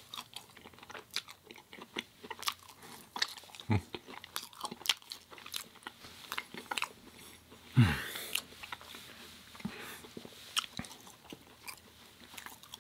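Close-miked chewing and biting of burger and fries: irregular small wet crunches and clicks from the mouth, with two short low sounds about four and eight seconds in, the second the loudest.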